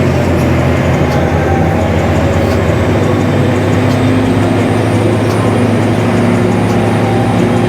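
Steady low engine drone while the ferry is under way, its pitch shifting slightly about three seconds in.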